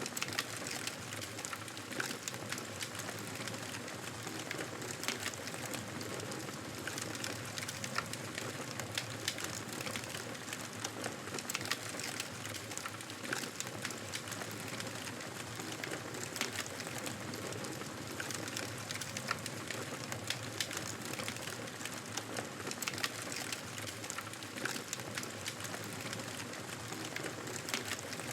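Fire crackling in a fireplace: a steady soft hiss with frequent small, sharp pops and snaps.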